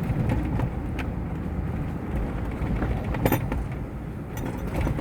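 Chevrolet Tahoe driving slowly, a steady low engine and road rumble with a few short knocks and rattles, around a second in and again past the middle.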